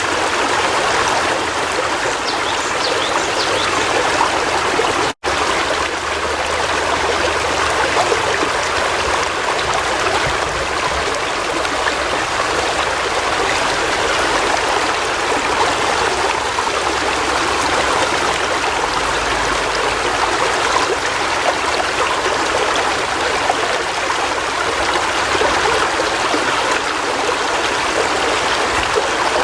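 River water flowing and splashing: a steady, even rush of moving water, with a momentary break in the sound about five seconds in.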